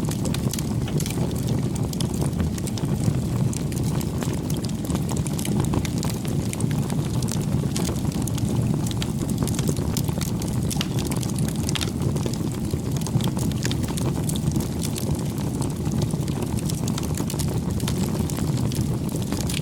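Campfire burning: a steady low rumble of flame with many small, sharp crackles and pops scattered throughout.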